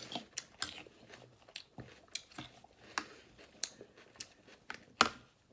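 A person chewing a mouthful of crunchy salad, with irregular crisp crunches, the loudest about five seconds in.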